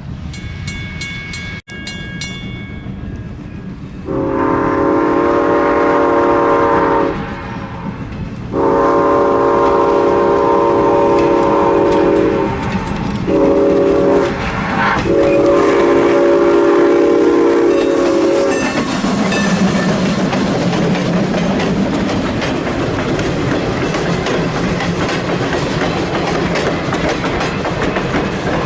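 Train horn sounding the grade-crossing signal, long, long, short, long, then the passing train's wheels clickety-clacking over the rail joints. A bell rings briefly near the start.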